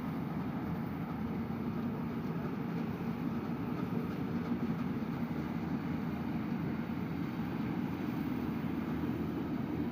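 Steady running drone of an engine-driven rice-harvesting machine, even and unbroken.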